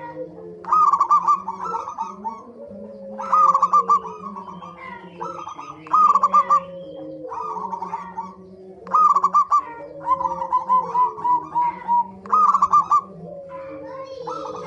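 Zebra doves (perkutut) calling: repeated bursts of rapid staccato notes every one to three seconds, over lower continuous cooing.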